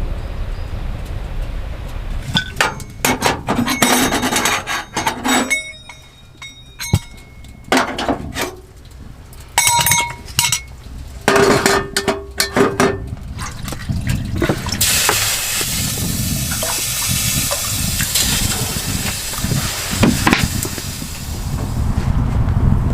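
Hard camp gear being handled: a run of clinks and knocks, some ringing briefly like metal or glass. From about halfway in comes a steady hiss lasting several seconds.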